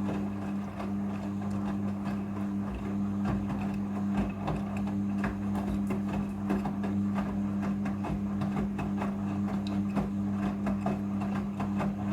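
Front-loading washing machine drum turning on the rinse cycle: a steady motor hum with irregular sloshing and knocking as water and the stuffed toys tumble inside.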